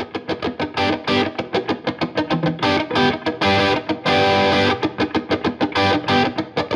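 Electric guitar music with distortion, fast picked notes at about five a second.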